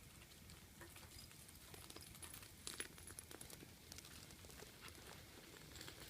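Faint, scratchy rustling of a brush drawn through a calico cat's fur, with scattered small clicks, the loudest a little before the middle.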